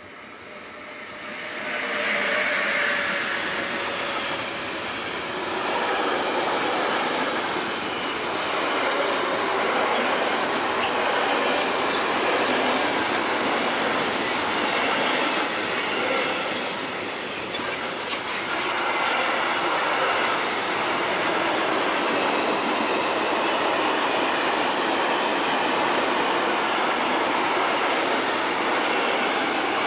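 Train passing close by on the track: the rolling noise builds over the first two seconds, then a long, steady run of wheels on rail goes on to the end, with some squeal and a few clicks over rail joints.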